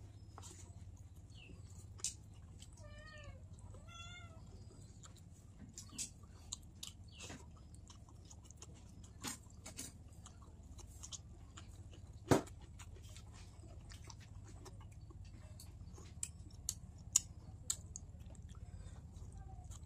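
Eating sounds from fish in broth: scattered wet chewing clicks and smacks, the sharpest about twelve seconds in. A cat meows in a few short wavering calls about three to four seconds in.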